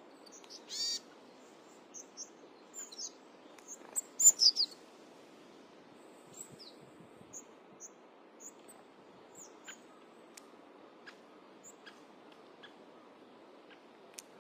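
Small birds chirping in short, high calls, loudest about four seconds in, over a faint steady background hiss. Scattered faint clicks come in the second half.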